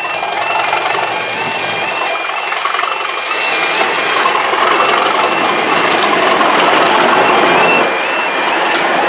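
Class 37 diesel locomotive's English Electric V12 engine working hard under power, growing louder from about three seconds in. Over it, a high two-tone electronic beeping repeats steadily.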